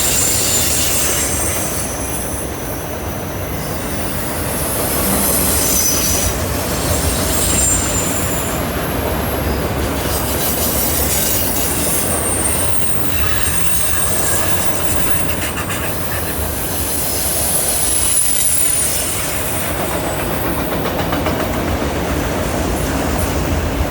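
Freight cars rolling past on a curved track: a steady rumble of wheels on rail, with high-pitched wheel squeal coming and going as the cars take the curve.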